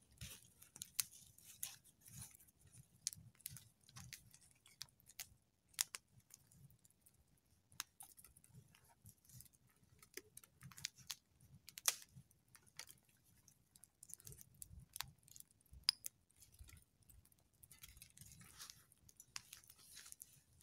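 Wood campfire crackling: irregular sharp snaps and pops, a couple of them louder than the rest.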